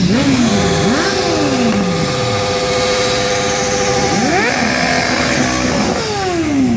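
Motorcycle engines running and passing by. One engine holds steady revs for a few seconds, while the pitch of others falls as they go past. About four seconds in the revs rise, then they fall away near the end.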